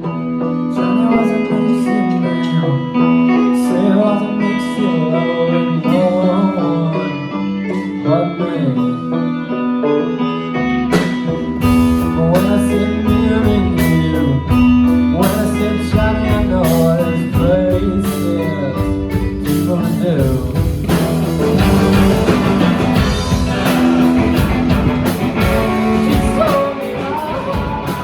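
A live rock band playing a song: guitars over a held chord with a wandering melodic line, then drums and bass come in about eleven seconds in, and the sound grows fuller again around twenty seconds.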